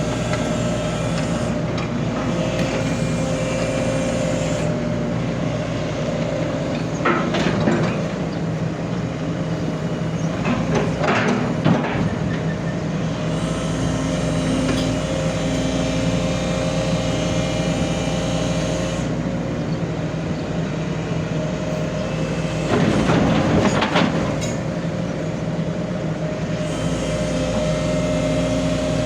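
Heavy diesel engine running steadily, with bursts of metallic clattering and clanking a few times, as a backhoe is driven forward onto a self-loader truck's deck.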